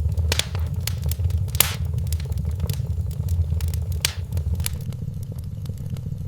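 Wood fire in a fireplace crackling, with frequent sharp pops over a steady low rumble; the pops thin out over the last second or so.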